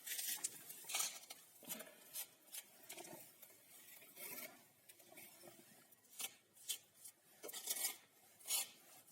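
Irregular short scrapes and clinks of stove masonry work: a trowel scraping and tapping mortar on brick.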